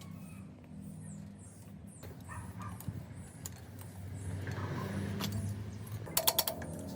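Low, steady mechanical hum, with a quick rattle of sharp metallic clicks near the end that is the loudest sound.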